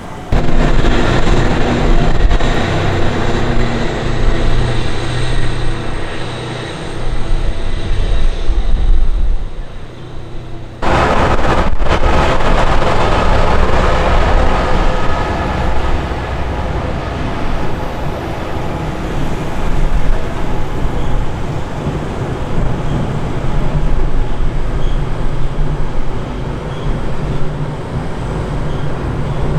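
A train running past on the rails, a loud steady rumble with rail noise. The sound breaks off and restarts abruptly about eleven seconds in.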